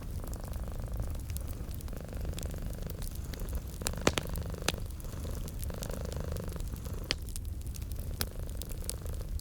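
A domestic cat purring steadily, swelling and fading with each breath in and out, over a crackling fireplace whose scattered sharp pops are loudest about four seconds in.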